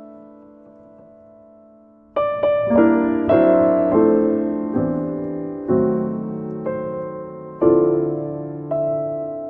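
Solo piano music: a held chord dies away, then about two seconds in a new phrase begins with chords struck roughly once a second, each ringing and fading.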